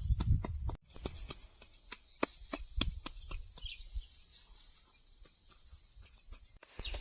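A steady, high-pitched insect chorus buzzes on without pause, with irregular sharp clicks and taps over it. The sound cuts out abruptly twice, for a moment each time.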